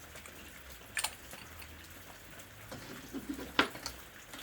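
Pens being handled on a desk: a sharp click about a second in and another near the end, with a brief rustle just before the second.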